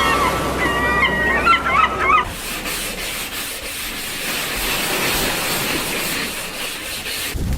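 Squawking bird calls with wavering pitch for about the first two seconds, then a steady rushing hiss for the rest.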